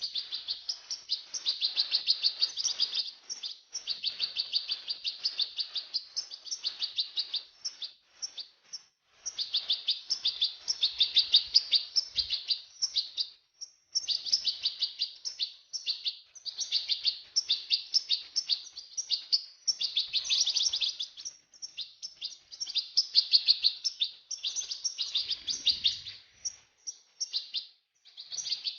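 European goldfinch singing: long phrases of rapid twittering and trilling notes, broken by short pauses.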